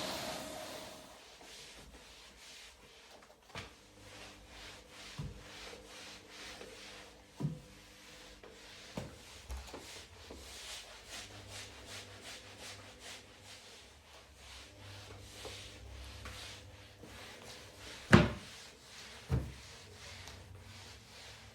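Rubbing and scraping handling sounds with a few light knocks, and two louder knocks near the end.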